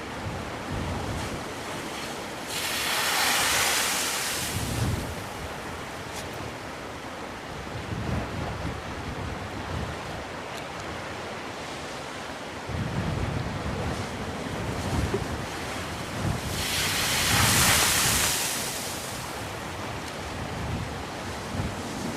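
Black Sea waves washing onto the shore, twice swelling into a loud hiss of surf, about three seconds in and again near the end. Gusts of wind buffet the microphone with a low rumble throughout.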